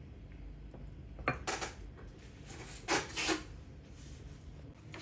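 Small metal carburetor parts clinking and scraping as they are handled and fitted: a sharp click about a second in with a short scrape after it, then two louder clatters around three seconds in.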